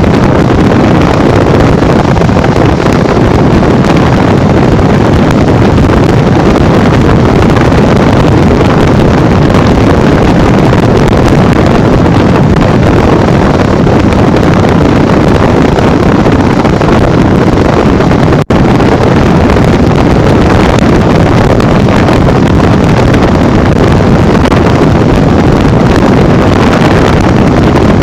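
Wind rushing hard over the microphone on a Honda Bros 150 motorcycle ridden at speed on the highway, with the engine running steadily underneath. The sound drops out for an instant about eighteen seconds in.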